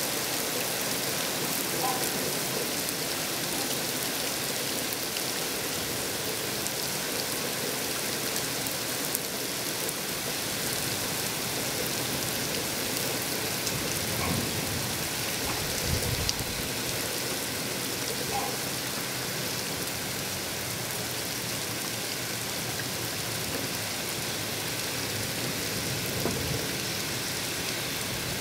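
Heavy rain falling steadily on wet pavement and rooftops, an even hiss of rain, with a couple of brief low thuds about halfway through.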